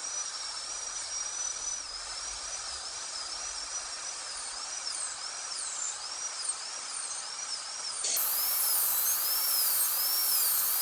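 High-speed dental handpiece with water spray, its high whine dipping and recovering again and again as the bur cuts away an amalgam filling and tooth structure from a molar. It gets louder about eight seconds in.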